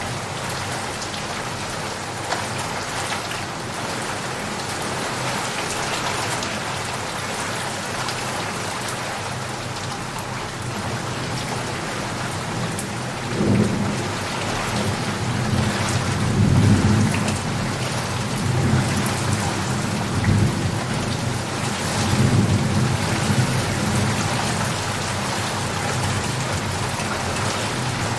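Steady rain falling, with a long roll of thunder rumbling low beneath it from about halfway through, swelling several times before it fades.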